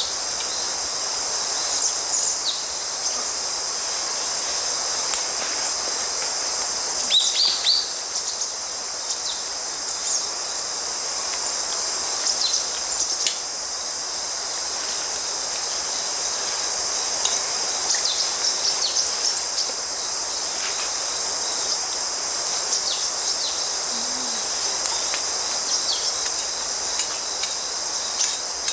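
Steady chorus of autumn crickets, a high continuous trill, over a soft even hiss of a flowing stream. A few short bird chirps break in, one clearly about seven seconds in.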